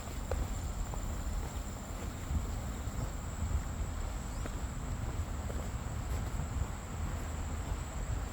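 Insects calling with one steady, high-pitched drone, over a low rumble, with a few faint footsteps.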